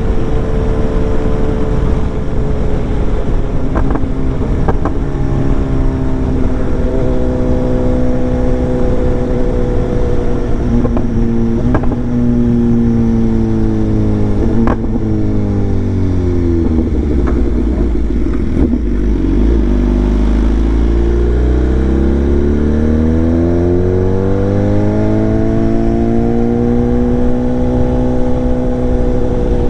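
BMW S1000XR's inline-four engine with a full exhaust system, running on the road. Its note slowly falls as the bike slows, bottoms out about two-thirds of the way through, then climbs again as it accelerates and holds steady near the end.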